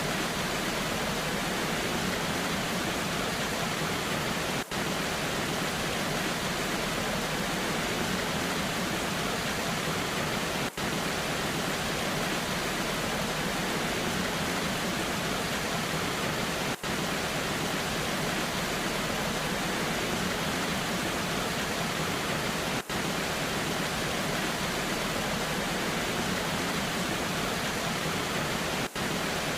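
Waterfall and falling rain: a steady rushing of water, dipping briefly in level about every six seconds.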